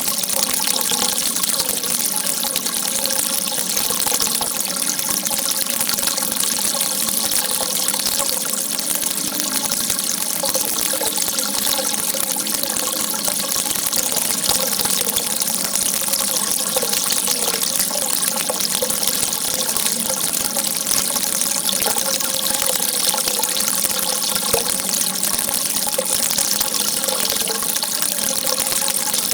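Water gushing in a steady, unbroken rush, as from a jet or spout of water shooting out.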